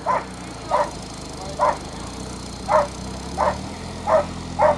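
A dog barking repeatedly, seven short barks about one every two-thirds of a second, over the steady low hum of a small engine running.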